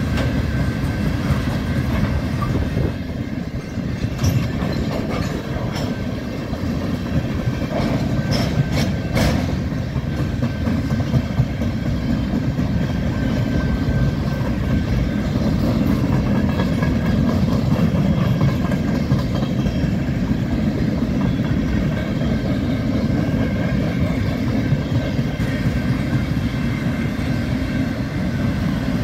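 Freight cars rolling past on the track: a steady low rumble of steel wheels on rail, with a few sharp clanks about four seconds and about nine seconds in.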